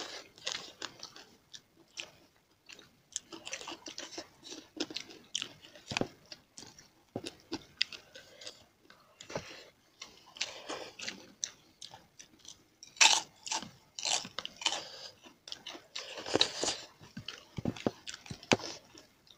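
Close-miked chewing and biting of a rice meal eaten by hand: wet mouth sounds with scattered sharp crunches, a cluster of louder crunches a little past the middle.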